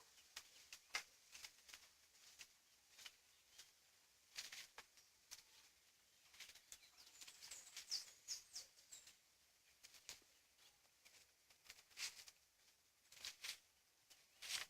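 Faint, scattered crackles and rustles of dry leaves and twigs on the ground, coming in irregular clusters, with a few short high bird chirps about halfway through.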